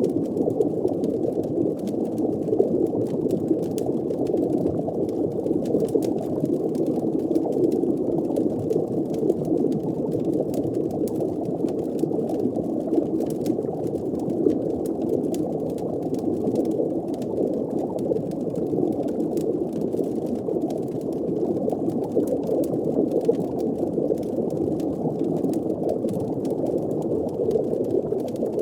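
Looping underwater fireplace ambience: a steady, muffled bubbling rumble with a scatter of faint crackles.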